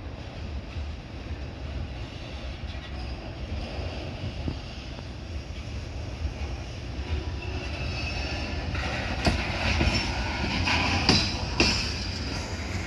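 Freight cars being shoved past by a yard switcher locomotive: a low rumble that grows louder, then from about nine seconds in high-pitched wheel squeal and a few sharp clanks as the cars roll by.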